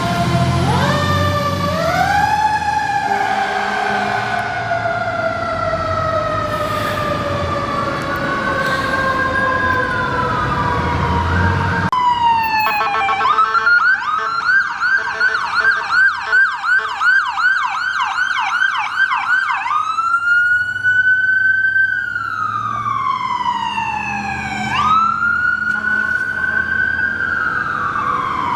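Emergency vehicle sirens responding code 3. For the first twelve seconds a fire engine siren winds up and then slowly falls in pitch over a low diesel engine rumble. Then an electronic siren cuts in, yelping about three times a second, and about twenty seconds in it changes to a slow wail that rises and falls twice.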